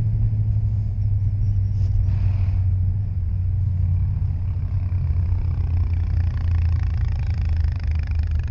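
Suzuki Hayabusa Gen 2's inline-four engine running at a steady cruise through its Yoshimura R-77 exhaust, a constant low drone with only slight shifts in pitch.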